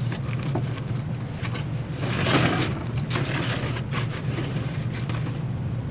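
Steady low hum, with scattered light clicks and rustling of handling; a louder rustle comes about two seconds in.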